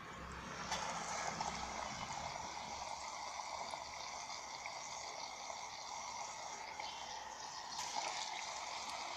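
Batter-coated potato croquettes deep-frying in hot oil: a steady sizzle that swells about a second in and holds.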